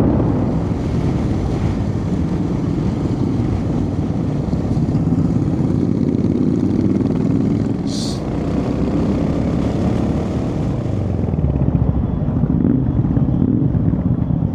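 Royal Enfield Hunter 350's single-cylinder engine running under way, with wind and road noise, and a brief high-pitched chirp about halfway through.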